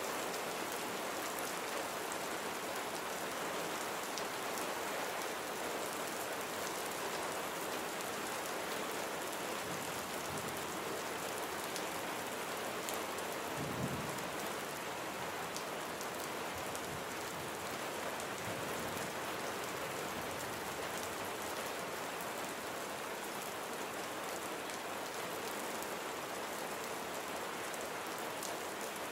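Steady heavy rain falling and pattering on surfaces, an even dense hiss. About halfway through there is a brief low thud.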